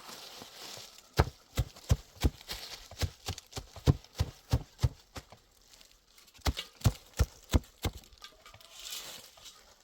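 A quick series of sharp knocks, about three a second, in two runs with a short pause between them.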